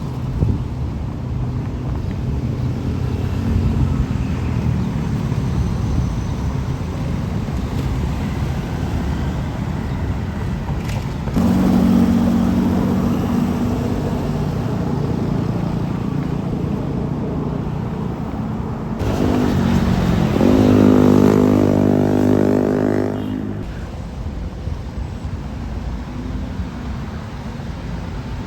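Road traffic: motor vehicle engines running past in a steady rumble. About two-thirds of the way through, one engine revs up with its pitch climbing for a few seconds, the loudest moment, then fades.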